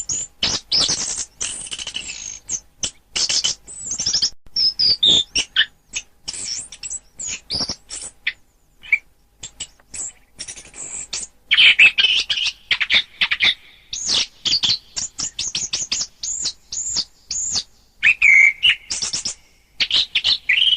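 Songbird song from a masteran recording of anis merah (orange-headed thrush) and wambi: a fast, varied run of high chirps, trills and whistled phrases with only brief pauses.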